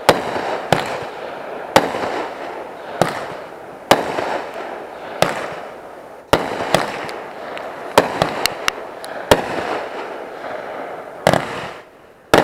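Consumer fireworks going off: a string of sharp bangs about a second apart, with a rapid cluster of four or five reports in the middle and a continuous crackle between the bangs. The sound drops away briefly just before a final bang at the very end.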